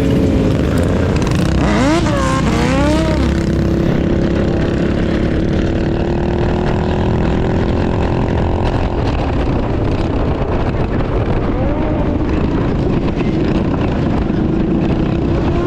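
Motorcycle engines running during a group ride: one revs up and down quickly about two seconds in, then holds a steady drone that slowly climbs in pitch, over a constant low rumble.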